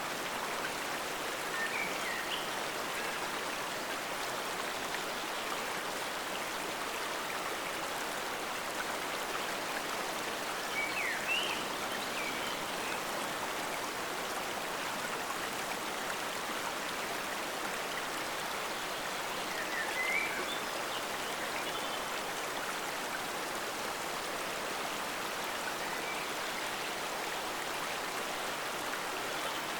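Forest stream flowing steadily, a continuous rush of water. A few short high chirps come through it, about 2, 11 and 20 seconds in.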